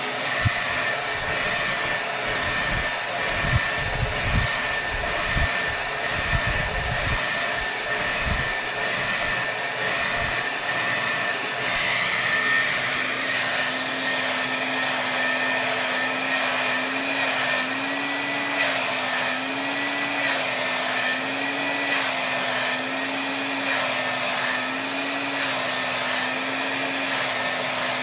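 Hair dryer running at full power: a steady rush of air with a thin motor whine. The first ten seconds carry irregular low thuds. From about halfway a low hum comes in and wavers up and down slowly.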